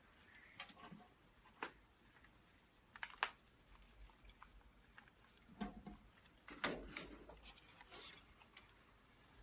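Handling noise: a scattering of light clicks and taps, with the sharpest ones about three seconds in and near seven seconds, consistent with goggles and their strap being handled.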